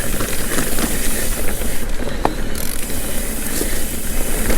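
Mountain bike being ridden along a dirt trail: a steady rush of wind buffeting the mic over tyre noise, with a few sharp clicks and rattles from the bike over bumps.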